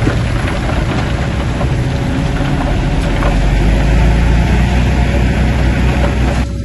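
Bulldozer diesel engine running under load with clanking and clatter, growing louder past the middle and cutting off abruptly near the end.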